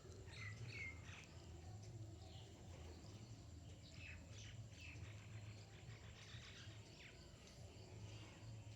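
Small birds chirping faintly: scattered short chirps, a cluster near the start and another about halfway through, over a low steady hum.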